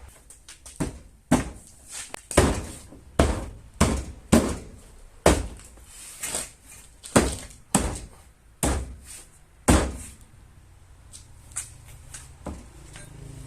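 About a dozen hammer blows on car body sheet metal, roughly one a second, as a damaged panel is knocked back into shape, followed by a few light taps near the end.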